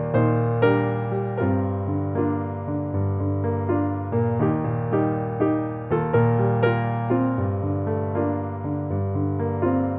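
Background piano music: notes struck in a steady rhythm over sustained low bass notes.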